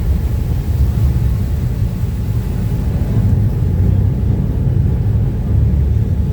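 Uber Boat river ferry running at speed: a loud, steady low rumble of its engines and the water, fluttering unevenly throughout.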